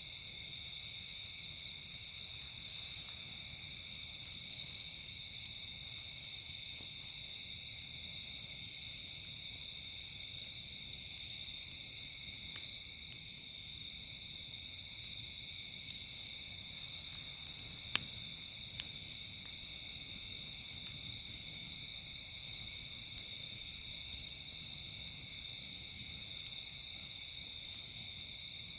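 Steady, high-pitched chorus of crickets and other night insects, with a few sharp pops from the crackling campfire, mostly in the middle of the stretch.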